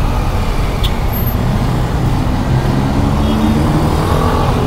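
Yamaha XSR 900's three-cylinder engine running while ridden through traffic, under heavy wind rumble on the helmet mic; the engine note climbs a little in the second half.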